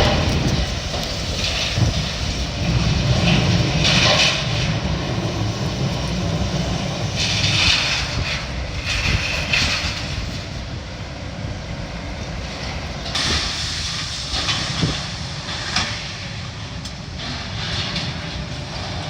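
Demolition machinery at work: a diesel engine running steadily, with crashes and scraping of debris and metal beams being pulled down every few seconds.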